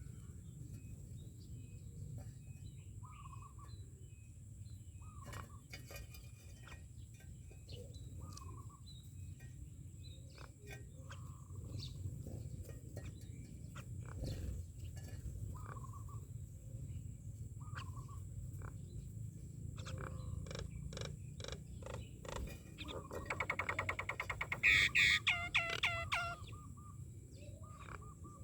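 Myna birds calling: short whistled calls every couple of seconds with scattered clicks, then a loud, rapid run of chattering notes near the end. A low, steady rumble lies underneath.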